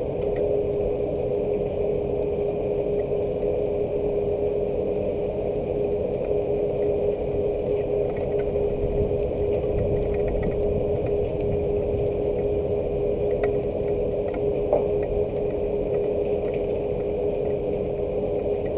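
Steady machine hum holding one constant tone over a low rumble, with faint light ticks of rain scattered through it.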